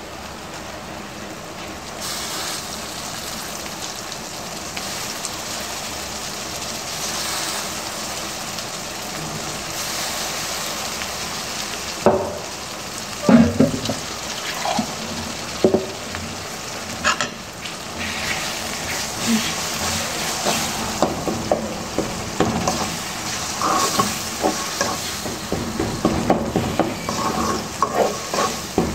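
Onion, spice and tomato masala sizzling in hot oil in a pot, a steady sizzle that steps up about two seconds in. From about twelve seconds in a spoon stirs it, knocking against the pot more and more often toward the end.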